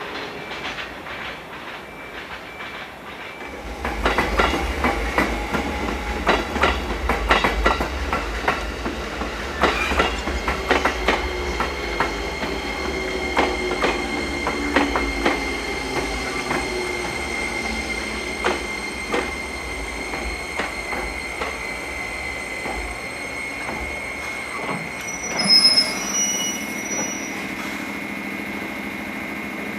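Freight train rolling past, its wheels clacking over rail joints in a dense series of clicks, with a steady high wheel squeal. A heavy low rumble sets in a few seconds in and dies away near the end.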